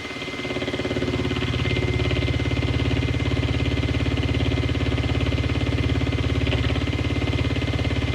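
PM30 belt-drive benchtop milling machine running with a chamfer cutter taking a gentle climb cut, a steady hum with a fast, even pulsing. The cut gets louder about a second in and then holds steady.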